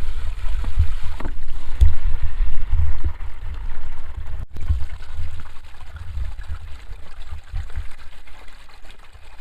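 Heavy rain pouring down: a steady hiss with a low, uneven rumble underneath.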